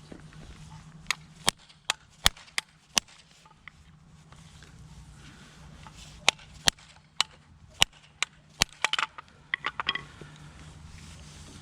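Irregular sharp metallic knocks and clicks of hand tools on metal motorcycle parts, with a quick run of lighter ringing clinks a little after two-thirds of the way in.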